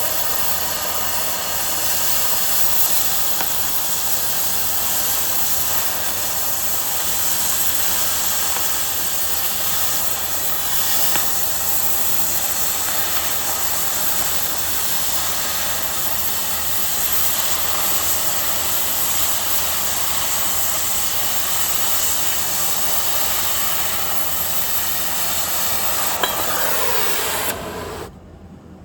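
Angle grinder running steadily against steel with a hissing grind, then winding down near the end, its pitch falling as the disc spins down.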